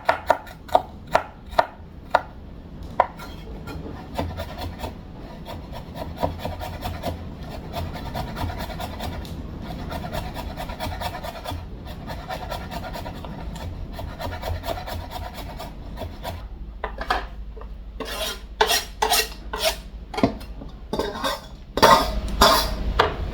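Kitchen knife chopping seasonings on a cutting board, about three sharp chops a second for the first few seconds. A long stretch of steady rubbing and scraping follows. Louder, irregular chopping strikes return near the end.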